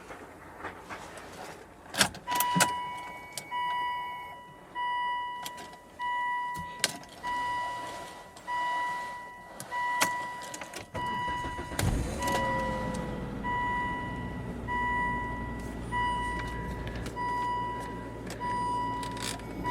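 An older car's warning chime beeps repeatedly, about one and a half times a second, after a few door and key clicks. About twelve seconds in, the engine starts in the cold and settles into a steady low idle under the chime.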